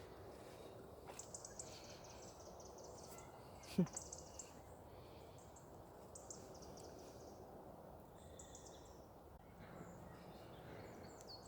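Faint riverside ambience: small birds give short, high chirping calls every second or two over steady background noise. About four seconds in comes one brief, low sound that falls in pitch.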